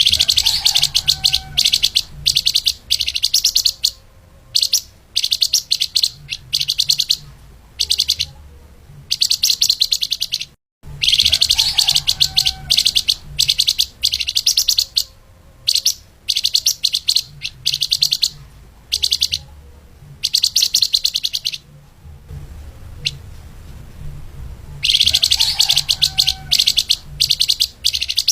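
Flamboyan (lemahan) songbird singing in fast, dense, high-pitched trilled phrases, each about one to two seconds long and separated by short pauses. A steady low hum runs underneath.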